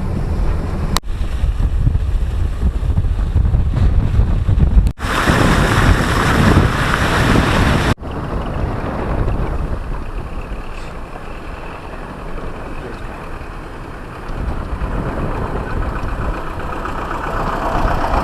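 Road rumble of a car driving, heard as steady low noise, then after a few cuts a steadier, thinner hiss of wind on the microphone.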